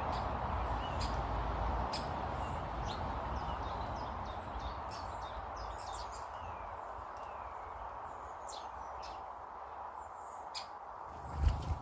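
Garden birds chirping, with short high calls scattered throughout over a steady background rush that slowly fades. A single loud thump comes near the end.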